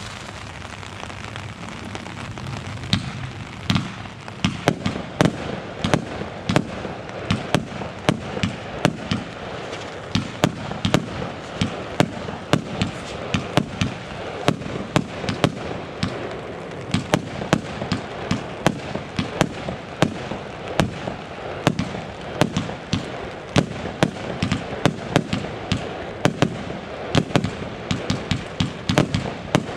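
Fireworks going off: a rapid, irregular string of sharp bangs, several a second, over a steady hiss. The bangs come sparsely at first and thicken about three seconds in.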